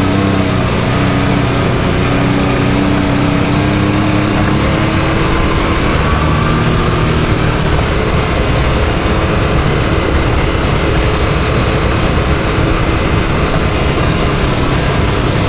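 Can-Am Maverick X3 side-by-side's turbocharged three-cylinder engine running steadily while driving a trail, its pitch drifting slowly up and down, over a continuous rumble of the machine on the ground.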